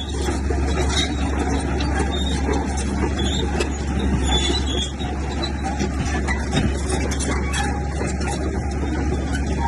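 Crawler bulldozer's diesel engine running steadily as a low hum, with many short metallic squeaks and clanks throughout.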